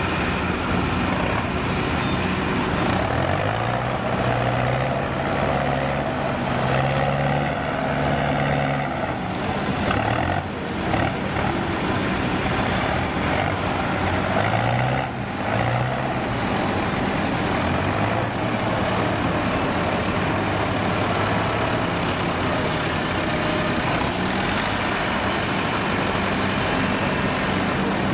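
Heavy diesel truck engine running and revving, its pitch climbing in steps twice, as if pulling away through the gears.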